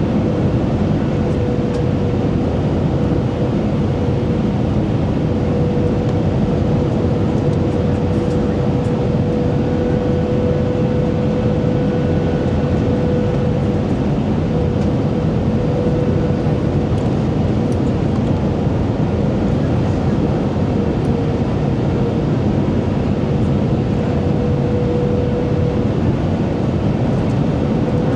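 Steady cabin noise inside an Airbus A320: a constant broad rush of engine and airflow noise with a steady droning hum through it.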